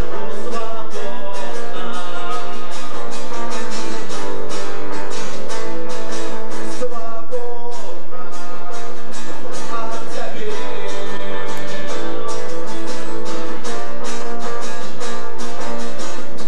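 Acoustic guitar strummed in a steady rhythm, with a singing voice over it.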